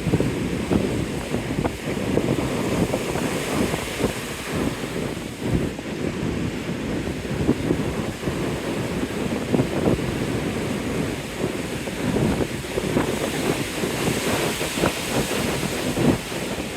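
Ocean surf washing ashore, with wind buffeting the microphone in a rough, fluttering rumble.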